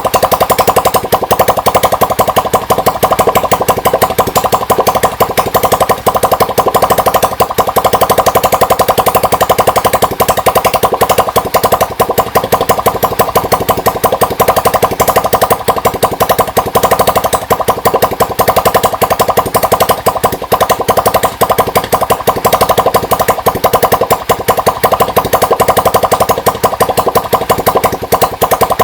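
Yamaha STX 125 (YD125) single-cylinder motorcycle engine running steadily with a rapid, even beat, freshly overhauled.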